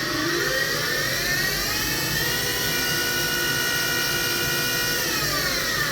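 Hurco VM5i CNC machining center's spindle running up to speed with a rising whine, holding a steady pitch for a few seconds, then starting to wind down near the end.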